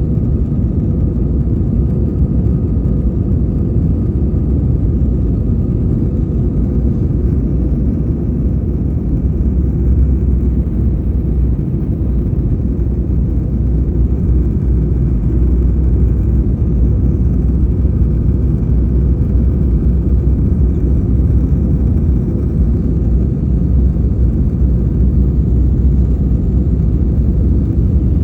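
Airbus A320 cabin noise: a steady low rumble of the jet engines and airflow heard from inside the passenger cabin, with a faint steady whine above it.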